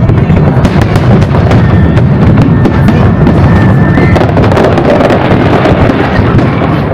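Fireworks display going off continuously: a dense rumble of bursts with many sharp cracks, loud throughout. A thin high tone holds for a couple of seconds in the middle.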